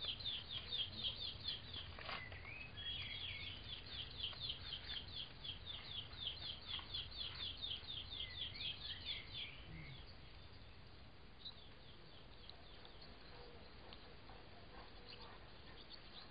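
A bird singing a fast, even run of short high falling notes, about five a second, which stops about ten seconds in; a few fainter notes follow.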